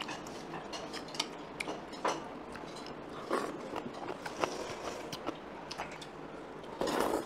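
A person chewing a mouthful of acorn kalguksu noodles, with scattered light clicks of utensils and a louder noisy burst near the end.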